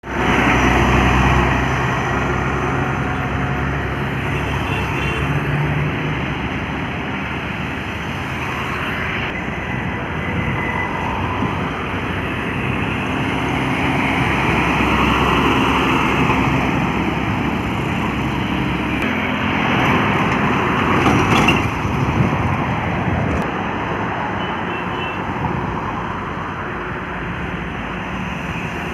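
Highway traffic with heavy trucks passing: steady engine and tyre noise, with a low engine drone at the start and the sound swelling as vehicles go by in the middle. There is a brief sharp sound about two-thirds of the way through.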